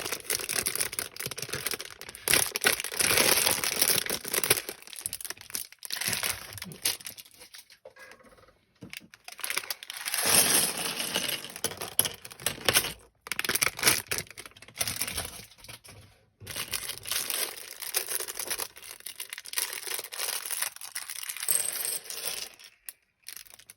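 Plastic Lego parts bag crinkling and rustling as it is torn open and handled, in several spells with short pauses between them.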